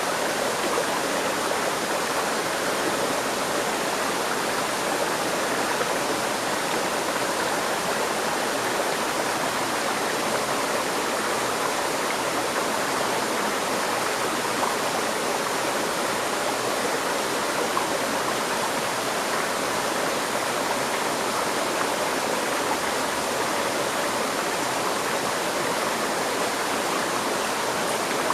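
River stream flowing in a steady rush of water with no pauses.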